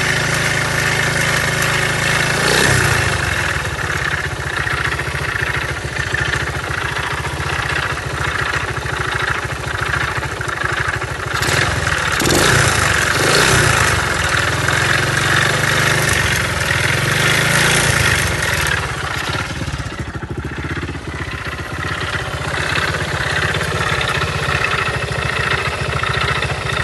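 Honda SS50's small single-cylinder four-stroke engine running, mostly at idle, revved briefly a few times, about 2, 11 to 13 and 18 seconds in. Its owner considers it to be making unusual noises.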